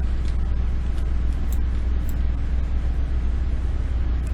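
Steady low hum, with a few faint, short clicks.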